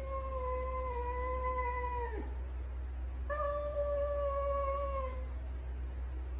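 A cat yowling: two long, drawn-out calls. The first sags slowly in pitch and drops off sharply about two seconds in; the second follows after a short pause and lasts about two seconds.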